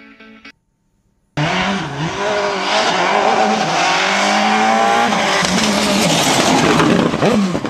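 Loud racing-car engine noise that starts suddenly about a second and a half in, its pitch rising and falling as it revs, over a steady noisy rush.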